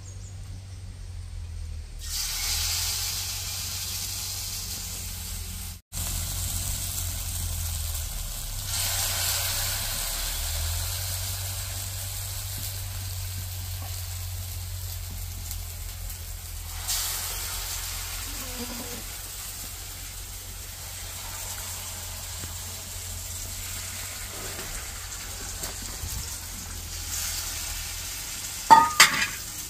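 Batter-coated pumpkin flowers sizzling and frying in hot oil in a black iron pan. The sizzle starts about two seconds in as the first pieces go into the oil and swells again around nine and seventeen seconds. A short, sharp, louder sound comes near the end.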